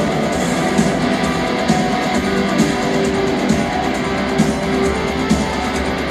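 Rock band playing live with no singing: strummed electric guitars and bass over a steady drum beat.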